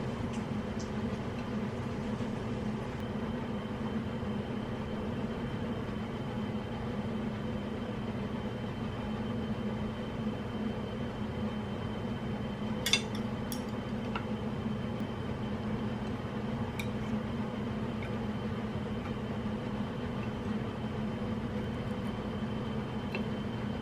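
A steady low hum with a few fixed tones, with a sharp click about halfway through and a few lighter ticks later.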